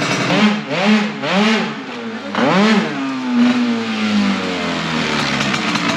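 Tuned 94cc two-stroke engine of a Yamaha Aerox sprint scooter revving up and down in several quick blips, then one longer fall in pitch.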